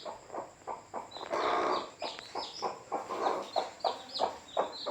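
Hen clucking in short, rhythmic calls, about three a second, with one longer, louder call about a second and a half in. Chicks peep high and short throughout.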